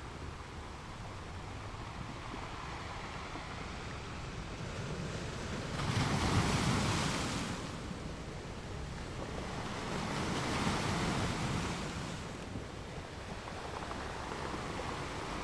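Ocean waves washing onto a shore: a steady wash with two louder surges of breaking surf, about six seconds in and about ten seconds in, the first the louder.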